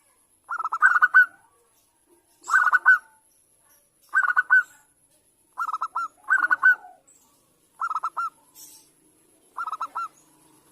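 Zebra dove (perkutut) cooing: seven short phrases of rapid, stuttering notes, repeated every second and a half to two seconds with pauses between.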